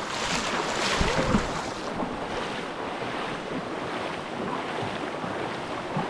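Steady rush of a rocky rainforest river while wading across it, with a low bump about a second in.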